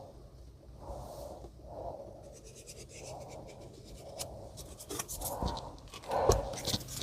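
Pen scratching as it traces around the sink to mark the cut-out, in faint repeated strokes, with a few clicks and knocks near the end.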